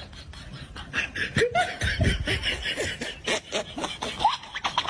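A person laughing in quick, choppy bursts.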